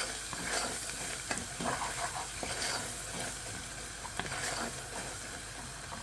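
Onions, green chillies and spice powders sizzling in hot oil in a pan, stirred with a utensil that scrapes and knocks against the pan now and then.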